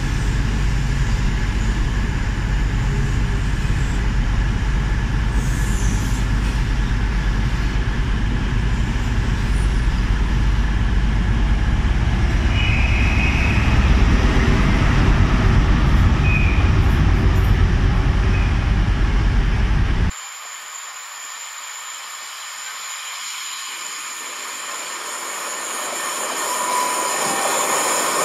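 LNER InterCity 125 high-speed train passing, its coaches rolling by and then the Class 43 diesel power car with a loud, steady low rumble. About two-thirds of the way through the sound cuts off abruptly, and another train is heard approaching, growing louder toward the end with a brief wheel squeal.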